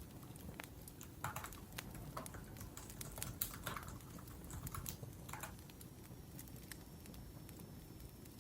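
Typing on a laptop keyboard: a run of key clicks that thins out about five and a half seconds in, over the steady crackle of a wood fire.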